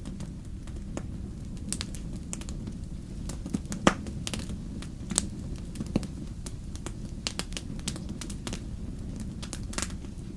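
Wood fire in a fireplace crackling, with irregular sharp pops over a low steady rumble of the flames; the loudest pop comes about four seconds in.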